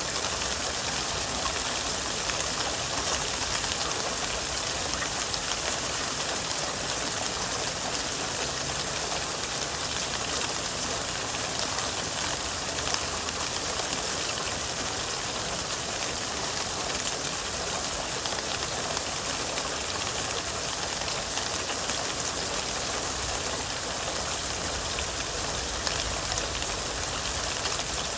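Steady rainfall, a continuous hiss with many fine drop ticks.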